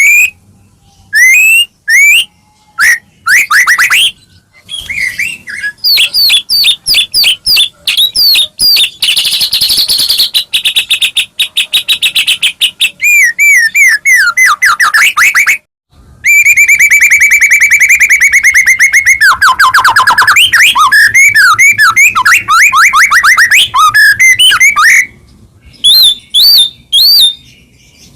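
White-rumped shama (murai batu) in full song: loud, fast, varied phrases of rapid repeated notes, whistled sweeps and trills, broken by brief pauses, with a long, very rapid trill just past the middle.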